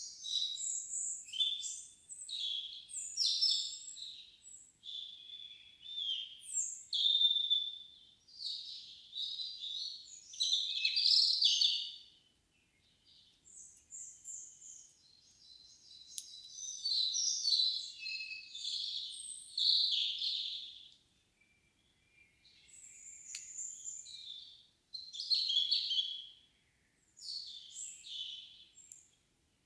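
Forest songbirds singing: a string of high, varied song phrases, one after another with short pauses, with two quieter stretches along the way.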